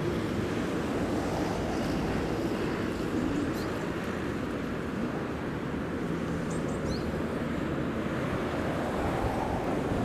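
Steady rushing of river water, with wind buffeting the microphone. A few short high chirps come through about three and a half and seven seconds in.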